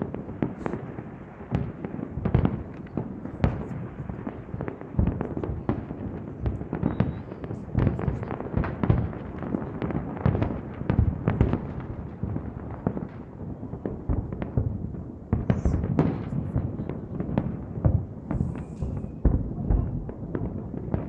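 Fireworks display: a dense, continuous barrage of overlapping bangs and booms, several per second.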